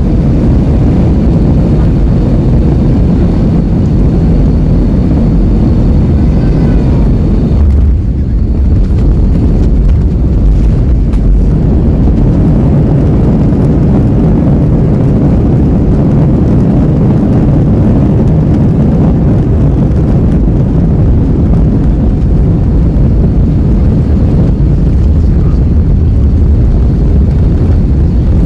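Airliner cabin noise during the landing: a loud, steady low rumble of the jet engines and airflow heard from inside the cabin, briefly changing about eight seconds in.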